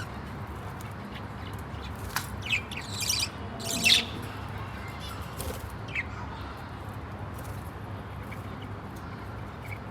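Budgerigars chirping in a few short, high bursts, bunched together about two to four seconds in, with one more chirp around six seconds, over a steady low hum.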